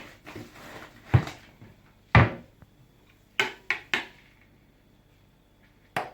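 Kitchen handling noises: a few separate knocks and clicks. The loudest knock comes about two seconds in, followed by three quick clicks a second later.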